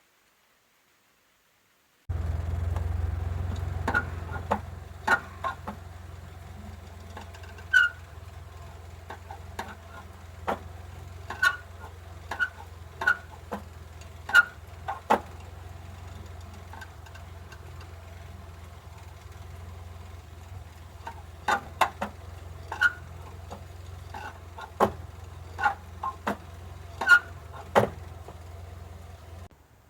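Mitsubishi Jeep engine idling with a low steady hum, starting about two seconds in, over which come irregular sharp clicks and short squeaks, about twenty in all, typical of the clutch pedal linkage as the pedal is worked. This is the abnormal pedal-linkage noise being tracked down.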